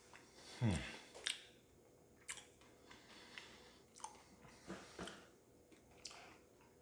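A person chewing a mouthful of almond Florentine cone filled with cheesecake, with faint, sharp mouth clicks about once a second.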